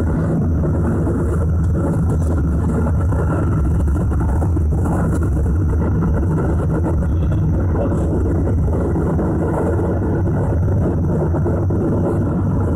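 Keisei 3050-series electric train running along the line: a steady rumble of wheels on rails with a low motor hum, heard from inside the leading car.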